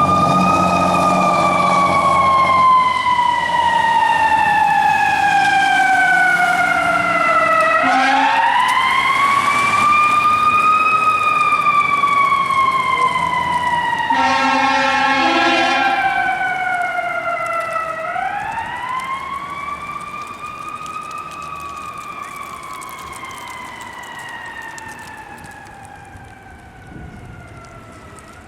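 Fire truck siren wailing in three slow cycles, each rising quickly and then sliding down over several seconds, with a short horn blast about eight seconds in and a longer one around fifteen seconds. The whole sound fades steadily over the last ten seconds.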